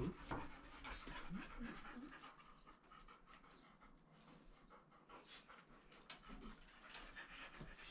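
A dog panting in quick, repeated breaths, louder for the first couple of seconds and then softer.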